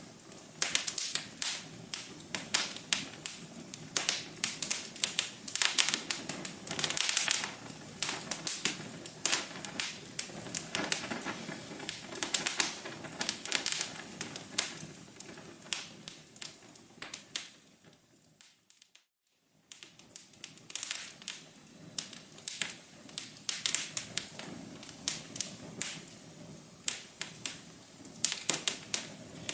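Fireplace fire crackling, with many irregular sharp pops. About two-thirds of the way through it fades away to silence for about a second, then comes back.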